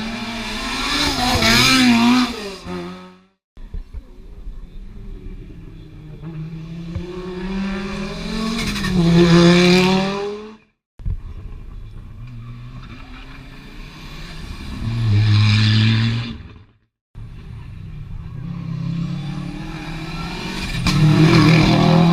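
Rally cars passing at speed one after another, about four passes. Each engine note builds up with its pitch rising and dipping, peaks as the car goes by, then cuts off abruptly where the clips are joined.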